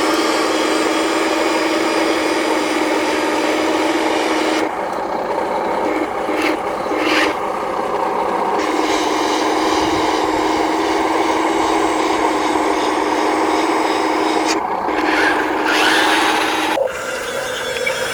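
Small electric motors and plastic gearboxes of radio-controlled toy construction vehicles running, a steady whine with a gritty grinding edge. The whine breaks off and shifts briefly about five seconds in and again near fifteen seconds, then drops away near the end.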